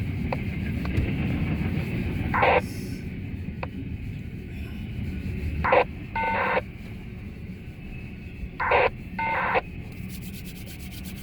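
Low steady rumble of a long freight train rolling past, with several short, pitched chirps or squeaks over it.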